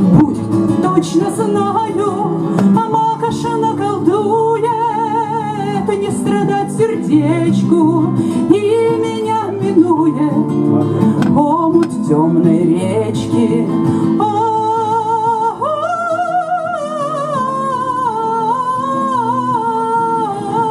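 A woman singing long held notes with a wavering vibrato over acoustic guitar accompaniment.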